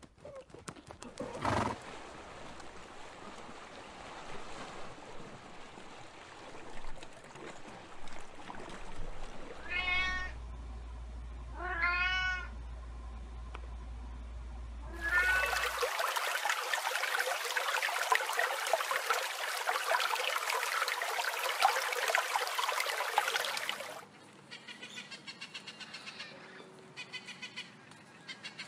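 Domestic cat meowing: two meows that rise and fall in pitch, about two seconds apart, and a third that runs into a loud, hissy rushing noise lasting about nine seconds.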